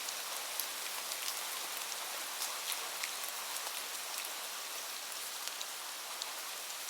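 Steady rain: an even hiss with scattered light drop ticks.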